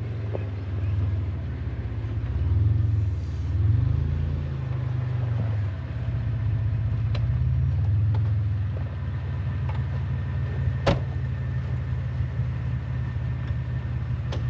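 Vehicle engine running while the vehicle moves slowly, a low rumble that rises and falls in pitch several times. A single sharp click about three-quarters of the way through.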